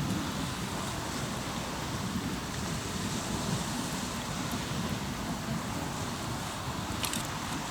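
Steady wash of waves on the shore mixed with wind on the microphone, with a few sharp crackles from a hardwood campfire about seven seconds in.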